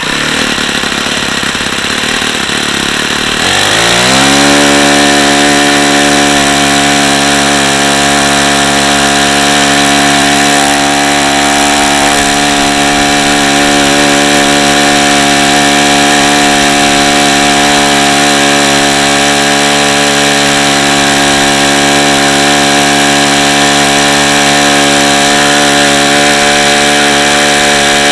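Saito FA-45 four-stroke glow engine, an engine with badly worn bearings, starting up: about three and a half seconds of rough, noisy running, then its pitch climbs quickly and it settles into a steady high-speed run with its propeller. Near the end the pitch begins to drop slightly.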